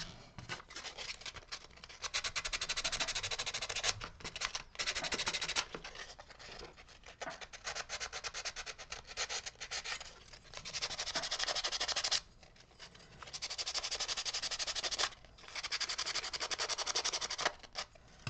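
A wooden carving being worked by hand: fine, rapid scraping in bursts of one to three seconds with short pauses between them.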